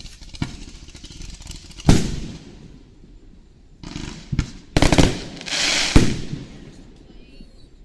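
Aerial fireworks shells bursting: a bang about half a second in, a louder boom near two seconds, then a quick run of bangs around five seconds, a spell of crackling and another boom at about six seconds.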